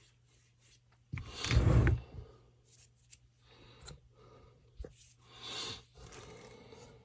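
A man blowing his nose once, a loud rush of air about a second in, then a softer sniff near the end, with a few light clicks of handling in between.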